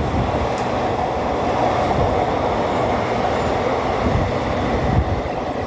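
Train running through a station at speed: a loud, steady rushing rumble of wheels on rails, with a couple of heavier knocks near the end.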